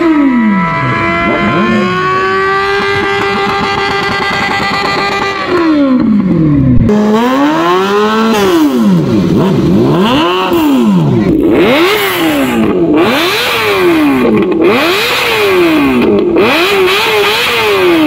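Sport motorcycle engines revving hard: first one held at high revs, rising slowly for about five seconds, then repeated throttle blips that rise and fall about once a second.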